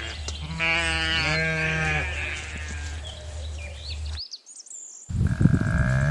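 A lamb bleating twice in quick succession; each call is a short, quavering bleat.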